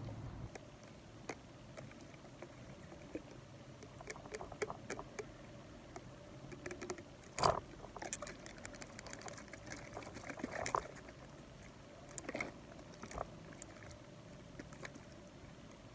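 Close-up ASMR trigger sounds: scattered soft clicks and small crackly taps over a low hiss, with one sharper click about seven and a half seconds in and a brief cluster near eleven seconds.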